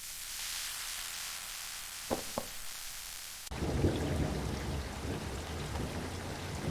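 A steady hiss with two quick clicks about two seconds in, then a sudden change about halfway through to heavy rain with a low rumble of thunder.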